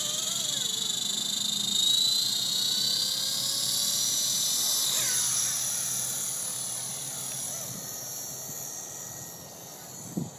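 Blade SR electric RC helicopter in flight, its motor and rotor whine rising and falling in pitch over wind noise. It grows fainter over the second half.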